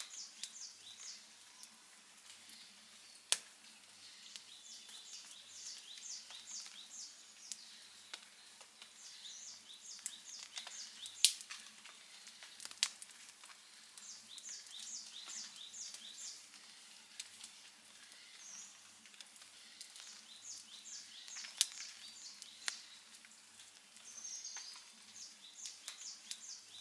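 Wood fire crackling softly, with a few sharp pops, the loudest about eleven seconds in and again near twenty-two seconds. A songbird repeats a short, high phrase of rapid notes every several seconds.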